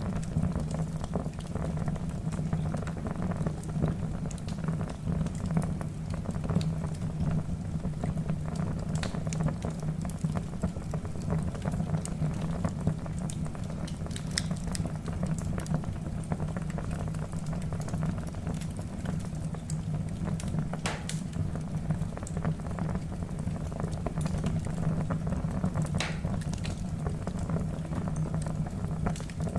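Log fire burning in a fireplace: a steady low rush of flame with scattered sharp crackles and pops from the burning wood.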